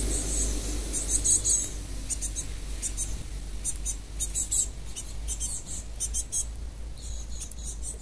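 Birds at a ground feeding spot: runs of short, high-pitched chips and ticks in quick clusters, over a steady low rumble.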